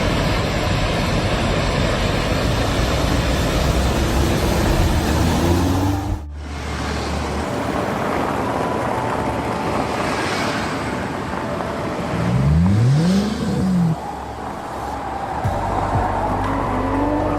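Car engine and road noise over several cut-together clips, breaking off abruptly about six seconds in. A little past the middle an engine note rises and then falls.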